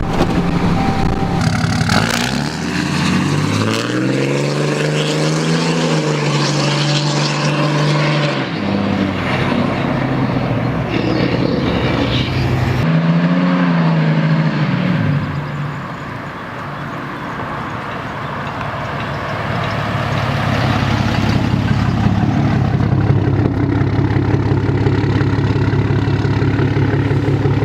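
2014 Dodge Ram 3500 pickup driving, with its engine pitch rising as it accelerates about two seconds in and again around twelve seconds, then falling away, over steady road and tyre noise.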